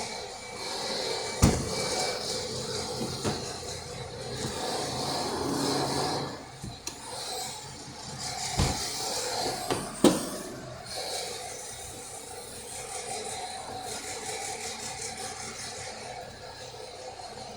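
Hyundai Tucson 2.0-litre engine running, with a few sharp knocks in the first ten seconds.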